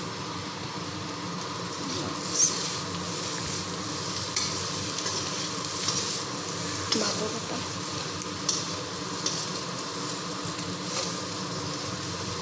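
Pork with onions and spices sizzling in oil in a kadai over a medium gas flame, with a few sharp scrapes of the spoon as it is stirred while the meat browns.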